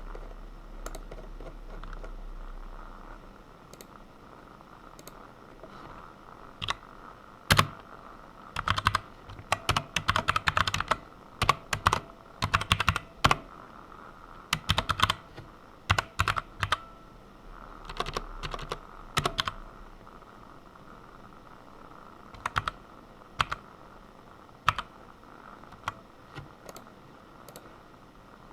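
Typing on a computer keyboard in quick bursts, densest from about seven to twenty seconds in, then scattered single key presses.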